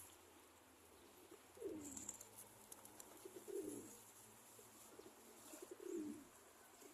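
Pigeons cooing softly: three low coos that drop in pitch, about two seconds apart.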